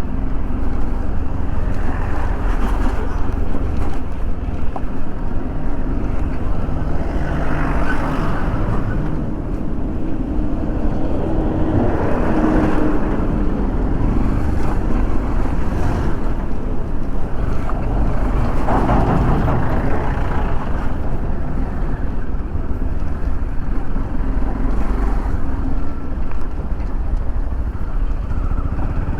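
Motorcycle engine running on the move, with a heavy low wind rumble on the microphone. The sound swells louder a few times, about 8, 12 and 19 seconds in.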